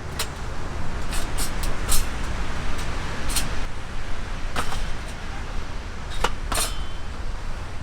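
A string of short, sharp clinks and knocks, about nine scattered irregularly, over a steady low rumble.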